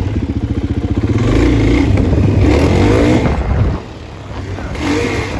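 Dirt bike engine under throttle while riding, its pitch rising and falling with the revs. About three and a half seconds in the throttle is shut and it drops to a quieter, lower run.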